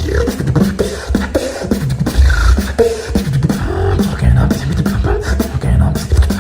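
Solo beatboxing: a fast rhythmic groove of mouth-made kick, snare and click sounds over a deep hummed bass line, with short pitched vocal effects between the beats.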